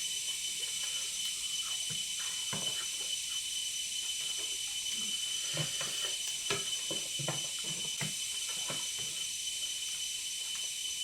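People eating, with scattered soft clicks and smacks of chewing and handling food, over a steady high hiss carrying a faint thin whine.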